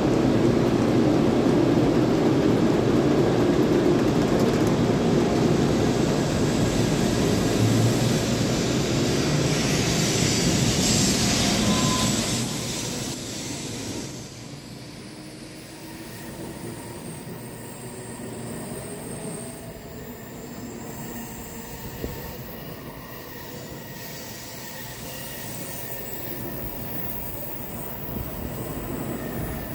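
N700A Shinkansen train pulling out of the station, its cars rolling past close by with a loud rumble that drops off sharply about 12 seconds in. After that the train's run is quieter, with a faint whine rising slowly in pitch as it gathers speed.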